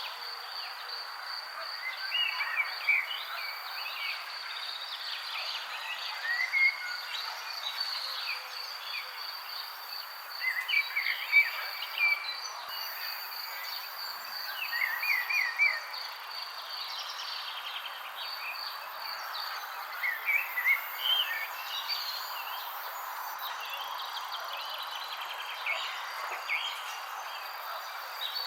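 Small birds chirping in short clusters every few seconds over a steady, pulsing insect trill and a soft background hiss.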